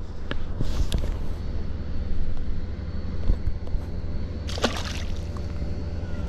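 Water sloshing and gurgling around a kayak, over a steady low rumble of wind on the microphone, with scattered small clicks and one brief louder noisy burst about four and a half seconds in.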